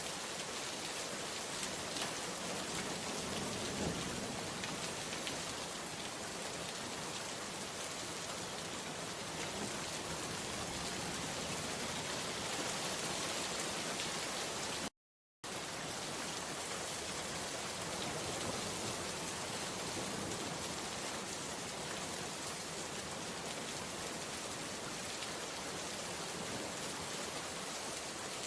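Steady rain falling and pattering on surfaces, an even hiss of drops. It cuts out completely for about half a second midway, then carries on unchanged.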